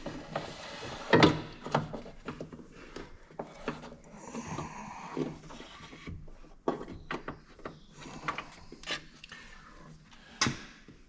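Irregular clicks, knocks and rubbing of shifter cables and their mounting hardware being handled and fitted by hand. There is a louder knock about a second in and another near the end.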